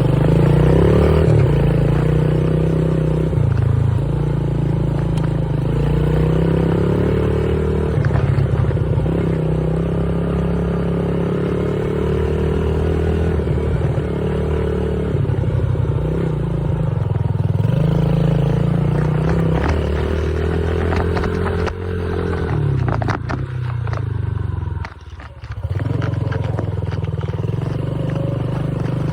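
Dirt bike being ridden, its motor pitch rising and falling with the throttle, with a brief drop in sound about 25 seconds in.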